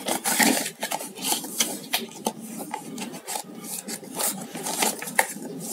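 Irregular rubbing and scraping strokes, hands handling something at close range.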